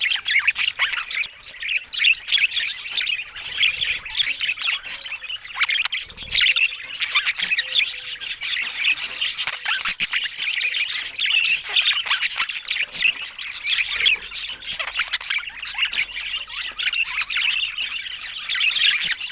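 Budgerigars chattering continuously: a dense stream of rapid warbles, chirps and squawks with no pause.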